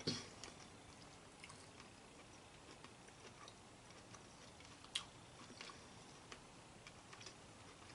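Near silence with faint, scattered soft clicks of someone eating, including one sharper click about five seconds in.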